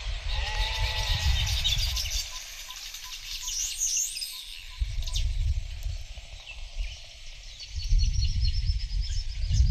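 Wind buffeting the microphone in gusts, with a bleating animal call about half a second in and scattered high bird chirps later.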